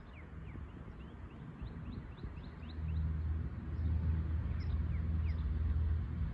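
Small songbird calling in quick runs of short, high, downward-sliding chirps, over a low rumble that grows louder about three seconds in.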